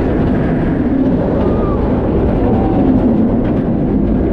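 Roller coaster train running along its track, steady rumble of the wheels and heavy wind rush over a wrist-mounted action camera.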